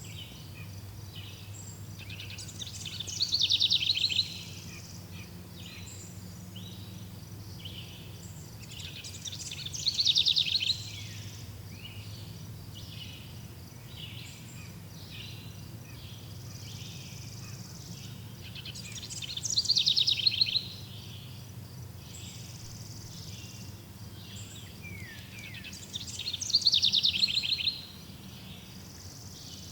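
Birdsong: one bird repeats a loud, rapid, falling song phrase four times, roughly every six to seven seconds, over steady chirping from other birds and a faint low hum.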